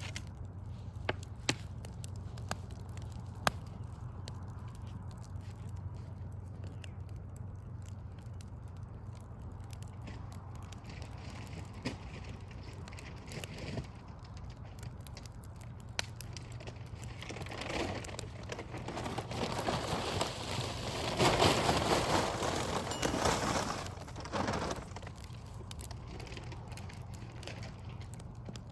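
Wood fire crackling, with scattered sharp pops over a steady low hum. About two-thirds of the way through, a louder rushing noise swells up and fades away over several seconds.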